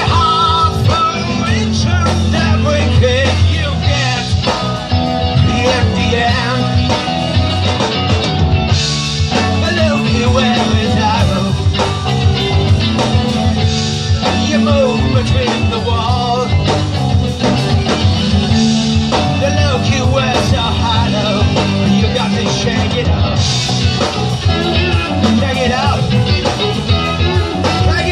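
Live rock band playing a song, with guitar and singing.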